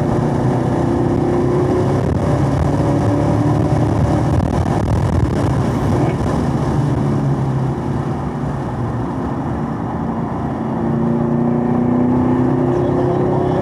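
Camaro SS 1LE's 6.2-litre V8 pulling hard under full throttle, its pitch rising, with wind and tyre noise heard from inside the cabin. Past the middle the engine falls away as the car brakes for a corner, then it picks up and climbs again near the end as the throttle goes back on.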